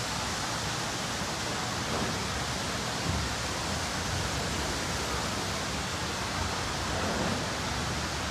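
Steady rushing noise of falling water, an even hiss with no pitch or rhythm.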